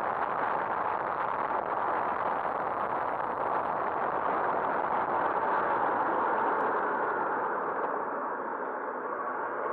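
Steady rushing wind and road noise from a moving motorcycle, without a clear engine note.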